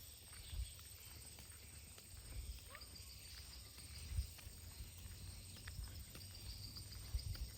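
Footsteps of a person walking along an outdoor path: soft irregular steps and light clicks, with low thumps every second or two over a faint steady outdoor background.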